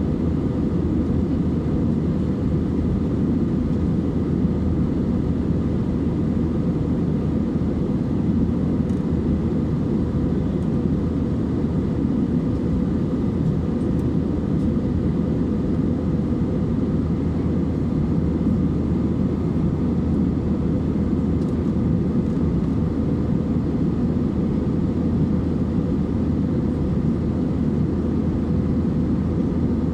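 Steady in-flight cabin noise of an Airbus A320-232: the even drone of its IAE V2500 turbofan engines and the rush of air over the fuselage, heard from inside the cabin.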